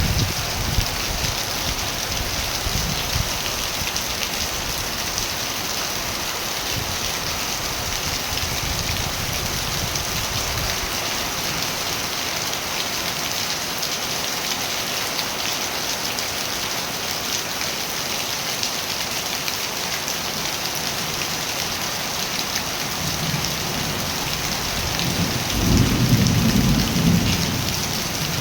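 Steady heavy rain falling, a dense even patter. Near the end a low rumble of thunder swells up and fades.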